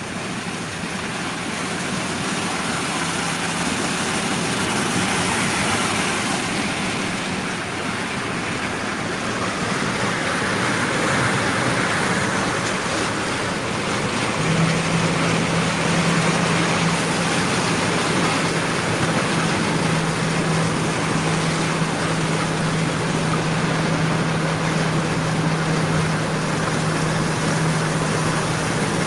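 Car driving through deep floodwater: a steady rush of water with the engine's low hum underneath, the hum growing louder about halfway through.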